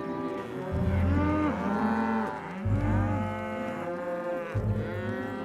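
Cartoon cows mooing: two long moos that rise and fall in pitch, over a low, repeating background sound.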